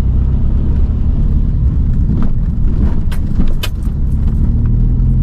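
Car driving, heard from inside the cabin: a steady low engine and road rumble, with a few sharp clicks or rattles about three seconds in.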